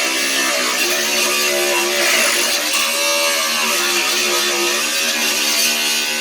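Angle grinder running under load, grinding spot welds off the car's sheet-steel body. Its whine sags and recovers as it is pressed into the metal, over a steady hiss of grinding.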